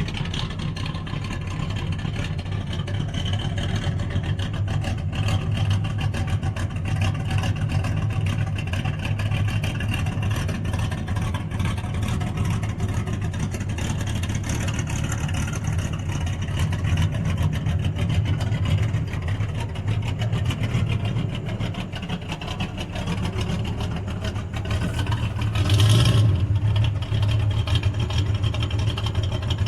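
Big-block Ford 460 V8 idling steadily after a cold start, growing briefly louder near the end.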